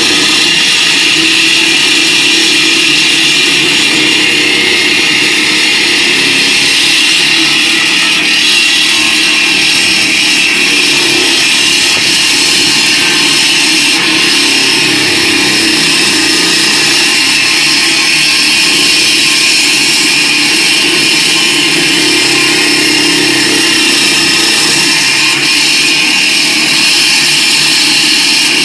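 Concrete cutting saw running with its blade cutting into a K300-grade concrete road slab: a loud, steady grinding whine.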